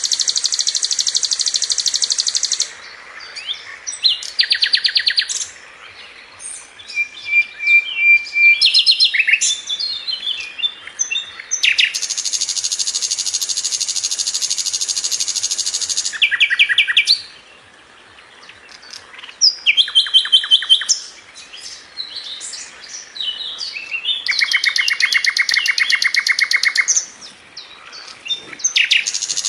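Sikatan londo, a small flycatcher, singing nonstop in long, very fast, tight high trills, each held for several seconds, broken up by shorter rattling phrases and single whistled notes.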